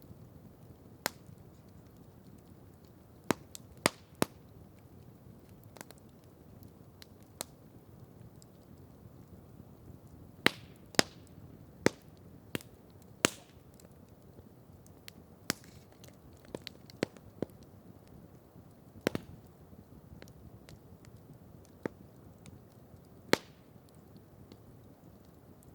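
Campfire crackling: irregular sharp pops and snaps of burning wood, a few much louder than the rest, over a faint steady hiss.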